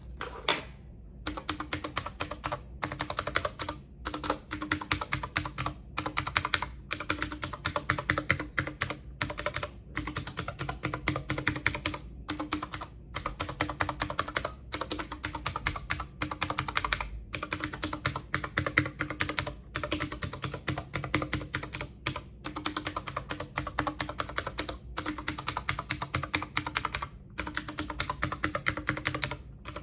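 Fast typing on a computer keyboard: a dense run of key clicks broken by short pauses every second or two.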